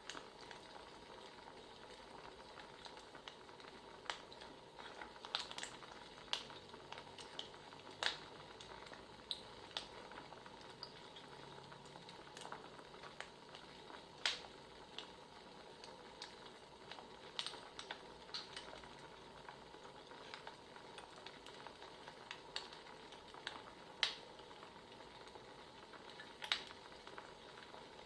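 Wood fire crackling: a faint steady hiss with irregular sharp pops and snaps.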